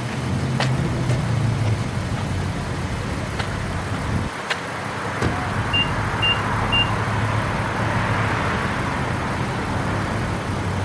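Car engines running, a steady low hum of motor noise. A little past the middle, three short high beeps sound in quick succession.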